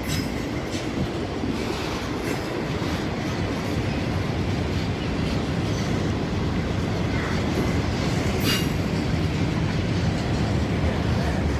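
Freight train cars rolling past: a steady rumble of steel wheels on rail, with a sharp clank about eight and a half seconds in.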